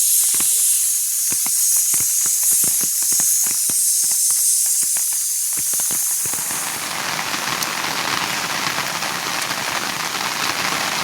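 A high steady hiss with scattered individual drops tapping on surfaces, then, about six and a half seconds in, the sound opens into the even wash of steady monsoon rain.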